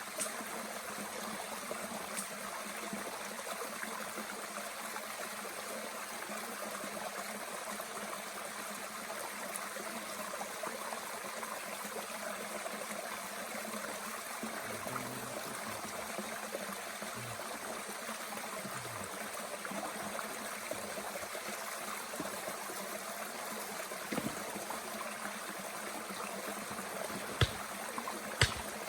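Small mountain stream flowing steadily, an even rush of water. Two sharp pops stand out near the end.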